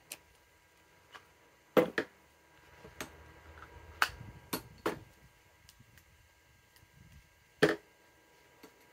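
Scattered sharp clicks and knocks of cordless power tools and a bit being handled and set down, about seven in all, the loudest a pair just before two seconds in and another near the end; no tool motor runs.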